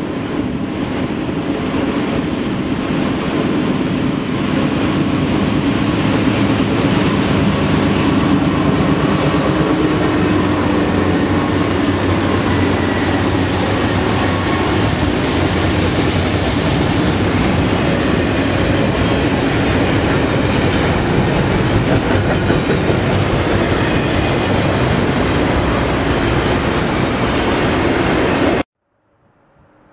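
Diesel-hauled double-stack container freight train passing close by: the locomotive's sound grows as it approaches, then the container well cars roll past in a steady stream of wheel-on-rail noise. The sound cuts off suddenly near the end.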